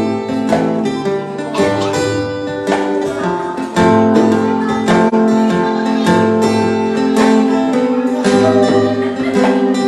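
Instrumental break of a song: an acoustic guitar strummed in a steady rhythm, with no singing.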